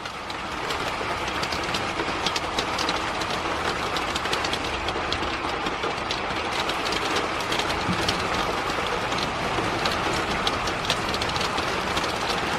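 Heavy rain falling steadily: an even hiss with many sharp ticks of drops striking a hard surface close by.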